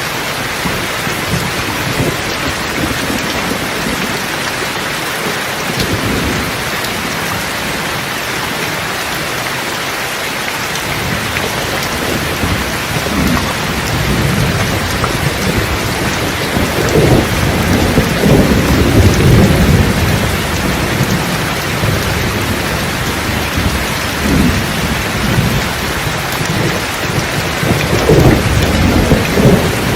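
Steady heavy rain hissing, with rolls of thunder rumbling in from about halfway, loudest a little past the middle and again near the end.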